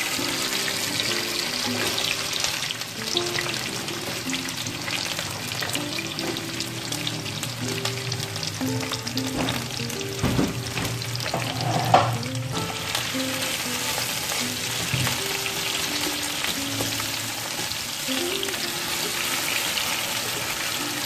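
Chopped onions and capsicum sizzling and crackling in hot oil in a non-stick wok while being stirred with a silicone spatula, with one sharp knock about halfway through.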